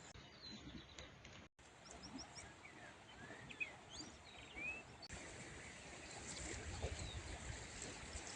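Faint outdoor ambience with scattered bird chirps and short whistles, mostly in the middle. The sound cuts out for an instant about one and a half seconds in, and the background noise grows louder in the second half.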